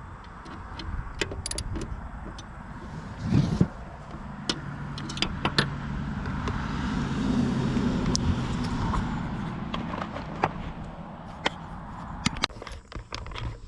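Sharp metallic clicks and clinks of hand tools and bolts during work on a mower deck. Under them a low engine hum builds up over a few seconds and fades away again.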